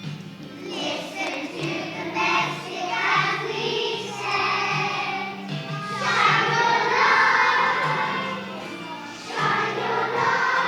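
Music with a group of voices singing together, choir-style, over a steady low accompaniment.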